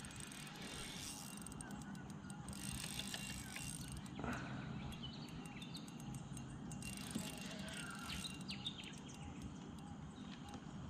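Faint, scattered bird chirps over low outdoor background noise, with two short stretches of soft hiss.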